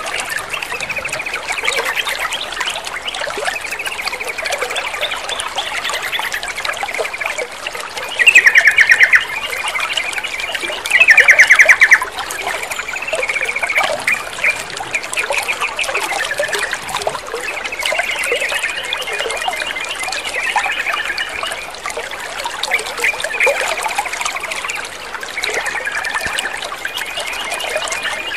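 Yellow-vented bulbul song, repeated chattering phrases over steadily trickling water. Two much louder harsh rattling bursts come about eight and eleven seconds in.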